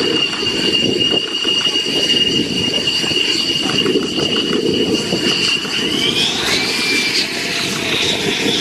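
Jet aircraft engine running, a steady high whine over a rumble; about six seconds in, the whine rises in pitch.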